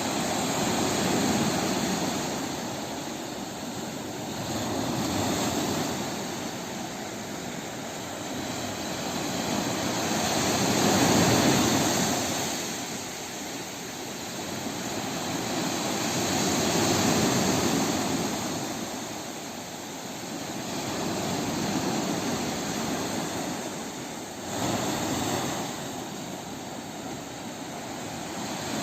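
Sea waves washing onto the shore, the surf noise swelling and ebbing in slow surges about every five to six seconds.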